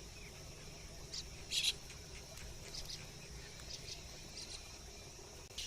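Faint steady drone of crickets or other insects, with a few short high chirps, the loudest about one and a half seconds in.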